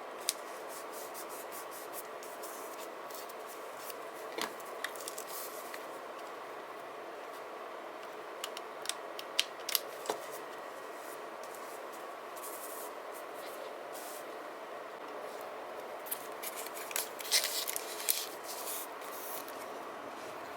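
Paper and stickers being handled while journaling: scattered crinkles, snips and small clicks in short clusters, busiest near the end, over a steady low background hum.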